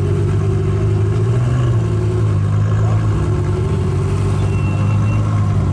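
A car engine idling steadily through its exhaust, its low pitch wavering slightly.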